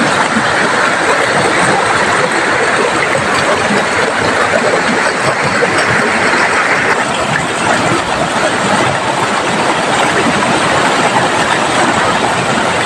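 Heavy tropical rain pouring down together with a fast-flowing river, a loud steady rush of water; a higher hiss in it eases a little about seven seconds in.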